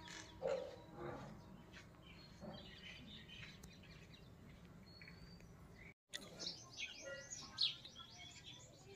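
Small birds chirping and tweeting faintly, with short scattered calls and a few brief whistled notes. The sound cuts out completely for an instant about six seconds in, and the chirping is busier after that.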